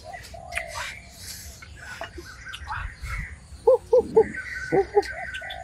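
A bird calling in short, clear, repeated notes, grouped in the second half, over a soft background of forest insects, with a low rush of breath as the fire is blown on.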